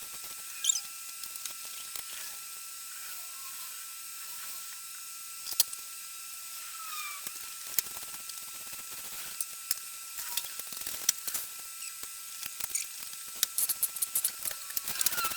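Light clicks and knocks of tools and small objects being handled and put away, scattered at first and coming in quick runs near the end, over a steady hiss.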